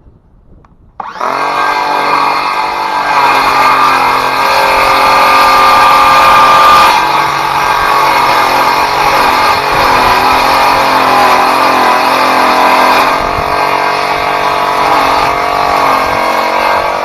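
Ridgid circular saw starting about a second in and running loud and continuously, cutting wood. Its steady motor whine wavers and dips in pitch through the second half.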